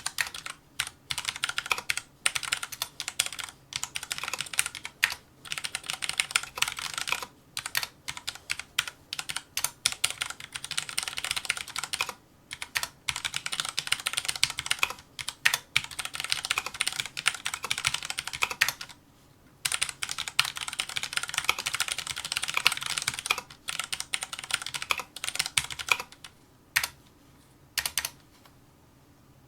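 Fast touch-typing on a Filco Majestouch2 mechanical keyboard with tactile Cherry MX Brown switches: rapid runs of keystroke clacks broken by short pauses. Near the end the typing thins to a few last keystrokes.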